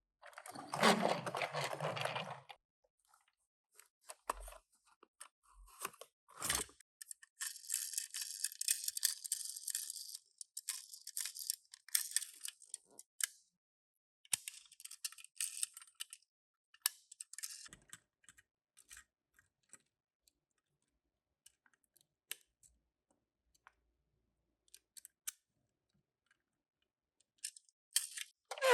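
Toy packaging being opened by hand: cardboard and plastic rustling and tearing in intermittent bursts, with small clicks and taps of a die-cast toy car and its box being handled, and quiet gaps in between.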